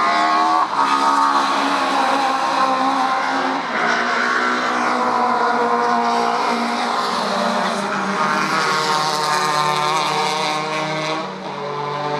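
Classic DTM touring race cars running at high revs, several engine notes overlapping, each rising and falling in pitch as the cars accelerate, shift and pass, with brief drops in level at the shifts.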